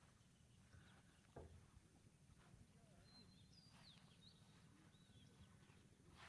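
Near silence with faint birds calling: scattered short chirps and whistles, some gliding up or down in pitch, over a steady low rumble.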